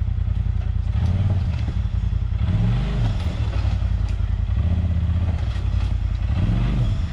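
Side-by-side UTV engine running. It is revved up and down three times, about a second in, around three seconds in and near the end.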